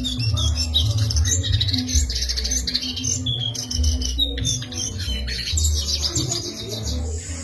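Songbird chirping and trilling in rapid, busy phrases, over background music with a heavy bass beat.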